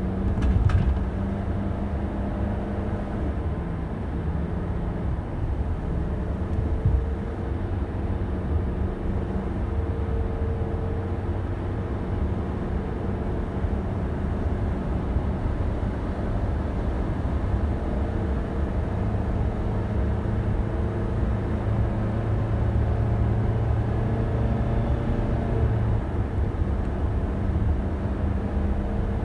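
A car driving at low speed: the engine runs steadily under a low road rumble, its pitch drifting a little. There is a sharp knock, like the car hitting a bump, about a second in, and a lighter one later.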